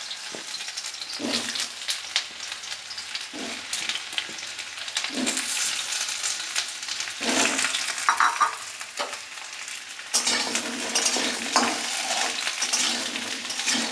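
Diced ash gourd (chal kumro) sizzling as it fries in hot oil in a kadai, stirred now and then with louder scraping strokes over a steady hiss.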